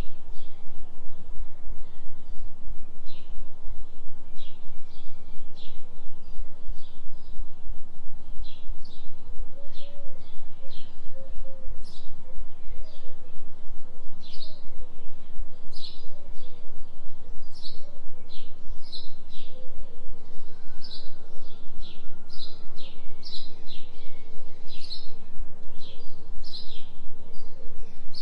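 A low steady tone pulsing about three times a second, a delta-frequency binaural beat, under a forest birdsong recording full of short high chirps and tweets.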